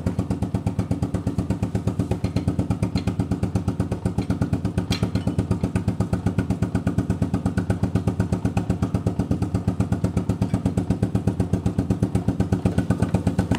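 1985 Suzuki QuadRunner 230 ATV's single-cylinder four-stroke engine idling steadily, its exhaust giving an even, rapid chuffing pulse with no revving.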